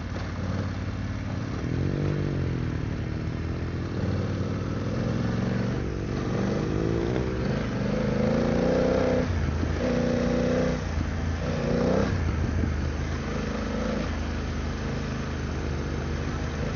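BMW GS adventure motorcycle engine running, its revs rising and falling with the throttle, with several louder surges of revving about halfway through.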